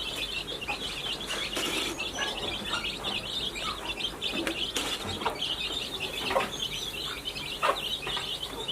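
Chickens clucking now and then over a constant dense chorus of high, quick chirping birds.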